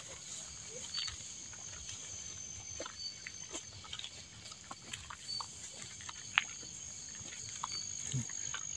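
Insects calling outdoors: a steady, high, continuous trill with short high chirps repeating every second or two. Scattered soft clicks and knocks sound over it.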